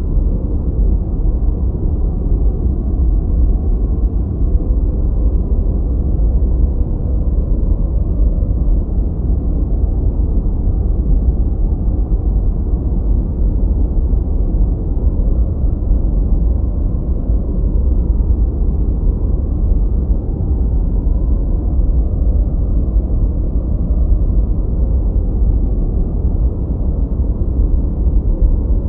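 Continuous generated noise for masking and focus, steady and unchanging. It is deep and rumbling, heavy in the bass with almost no hiss, so it sounds more like brown noise than bright white noise.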